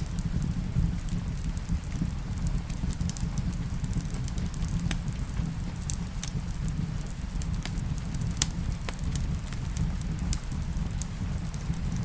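Fireplace crackling: sharp, irregular pops and snaps over a steady low rumble, mixed with the soft sound of rain.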